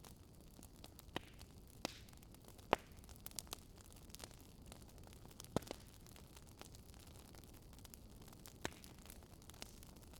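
Fireplace fire crackling: irregular sharp pops over a faint steady hiss, the loudest a little under three seconds in.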